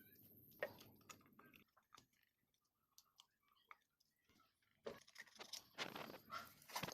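Quiet hand work: a few scattered light clicks, then a denser run of clicks and scrapes near the end, as small parts and tools are handled.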